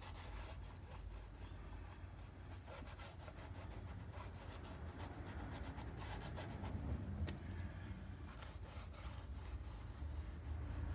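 Paintbrush strokes rubbing across a painting surface, faint and irregular, over a steady low hum.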